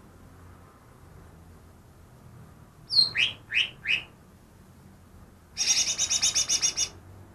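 Cucak ijo (green leafbird) singing mimicked phrases. About three seconds in comes a short high note and three quick rising whistles. Later there is a fast run of about a dozen clipped notes, roughly ten a second.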